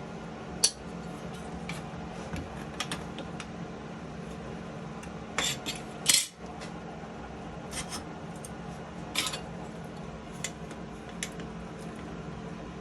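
Scattered sharp metallic clinks and knocks, about eight to ten of them at uneven intervals, over a steady background hum; the loudest come about half a second in and about six seconds in.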